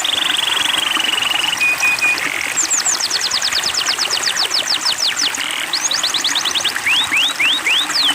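Songbird song in fast series of high, sharp down-sweeping notes, with a buzzy trill in the first second and a run of upward-sweeping notes near the end, over the steady rush of flowing water.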